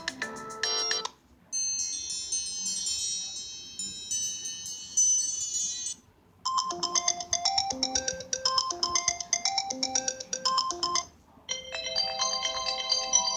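iPhone SE ringtones played one after another, separated by short silent gaps: one ends about a second in, a high, quick run of notes follows, then a lower repeating melodic phrase, and another melody starts near the end.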